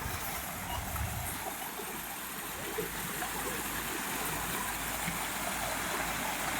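Water of a small waterfall and stream flowing steadily, with a low rumble that fades out in the first second and a half.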